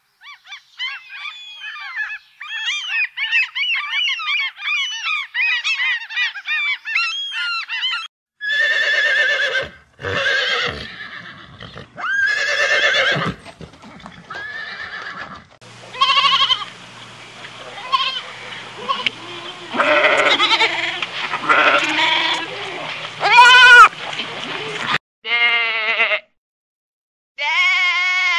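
A run of different animal calls cut one after another: many quick high bird calls for the first eight seconds, then a series of louder separate calls, and sheep bleating near the end.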